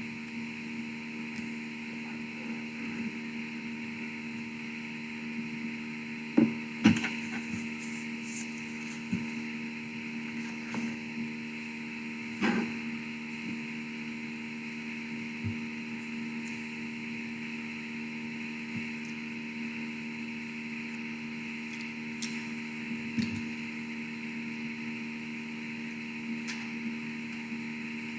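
Steady electrical hum and hiss from the church's sound system, with a few scattered sharp knocks, like wood being bumped, the loudest two close together about six and seven seconds in.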